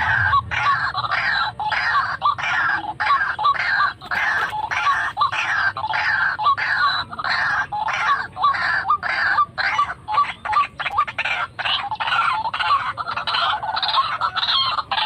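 White-breasted waterhen calling: a harsh, throaty note repeated about twice a second, without a break.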